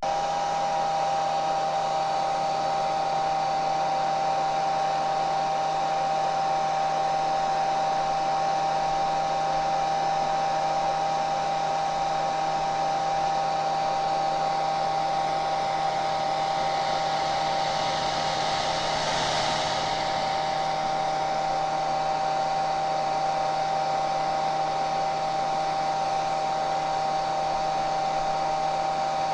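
Hair dryer running steadily: a constant rush of airflow with a steady motor whine on top. About two-thirds of the way through, the hiss swells briefly and then settles again.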